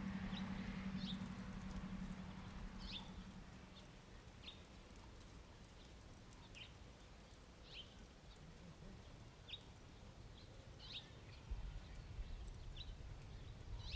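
A small bird gives short, high chirps that slide downward, every second or so, over faint low outdoor rumble. A low steady hum fades out in the first few seconds.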